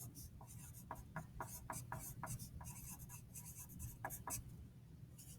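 Faint handwriting on paper: a string of short, quick scratchy strokes as a sentence is written out.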